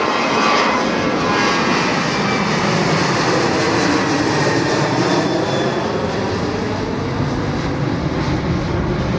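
Jet airliner's engines at takeoff power as it passes: a high whine falling in pitch near the start, then a steady low rumble that strengthens.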